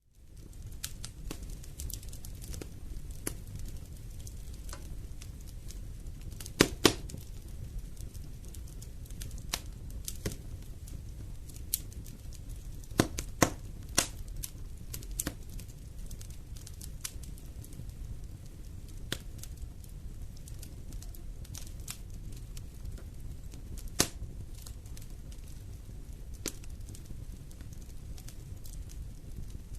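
Wood fire burning in a fireplace: a steady low rumble of flames with irregular sharp crackles and pops. The loudest pops come about a quarter of the way in, around the middle, and about four-fifths of the way through.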